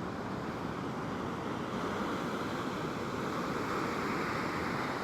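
Ocean surf breaking and washing up the beach: a steady rushing noise that builds a little through the middle and eases near the end.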